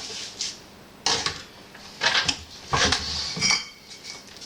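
A bricklayer's steel trowel scraping and tapping mortar on brick: about five short scrapes and knocks, roughly one a second.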